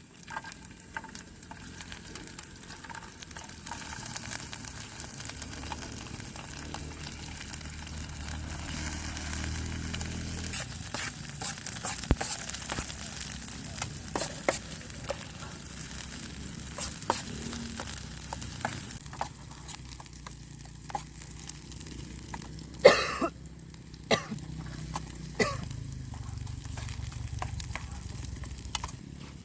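Steady sizzling with scattered crackles and clicks, and one sharp knock about three-quarters of the way through.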